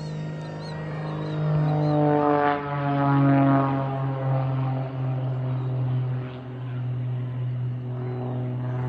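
Propeller airplane flying past with a steady engine drone. About two and a half seconds in, its pitch drops as it passes, loudest just after, then it carries on at the lower pitch.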